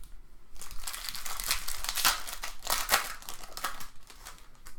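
Crinkling and crackling of a baseball card pack's wrapper as it is handled and opened. It is a dense run of crackles starting about half a second in, loudest around the middle, dying down near the end.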